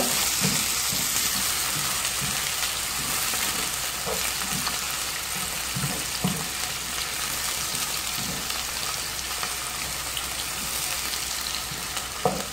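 Sliced onions sizzling in oil in a frying pan, stirred with a wooden spoon that knocks and scrapes against the pan a few times.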